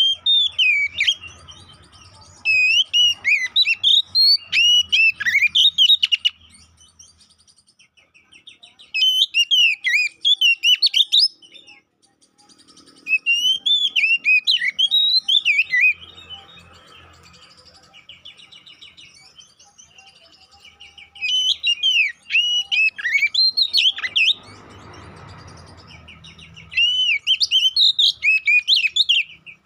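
Oriental magpie-robin (kacer) singing loud bouts of rapid, varied whistled phrases, each bout a few seconds long with short pauses between. There is a brief burst of rustling noise a little after two-thirds of the way through.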